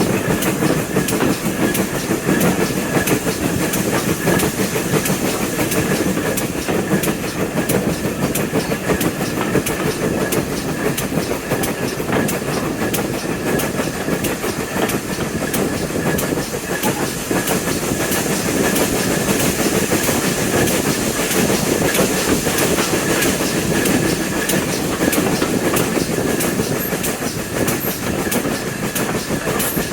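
A train running along the line: a steady rumble with many short clicks from the wheels on the track.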